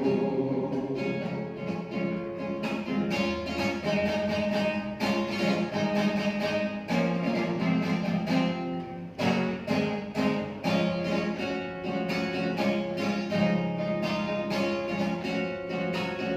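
Instrumental interlude of a Christian choir song, led by strummed guitar with sustained backing, without singing.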